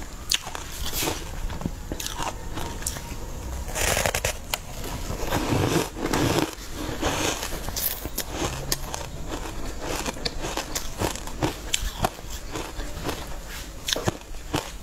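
Close-miked eating of a soft, green-powder-coated cake: many small wet, sticky mouth clicks from chewing, with louder bites or mouthfuls at about four and six seconds in.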